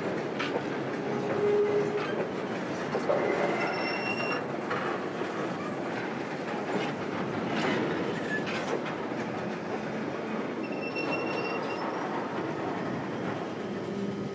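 Grain hopper wagons of a freight train rolling past slowly: a steady rumble of steel wheels on rail with irregular clicks and knocks. There are brief high wheel squeals about four seconds in and again past ten seconds.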